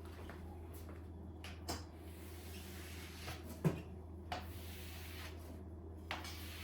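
Several light knocks and clicks from something being handled, the loudest a little past halfway, over a steady low hum.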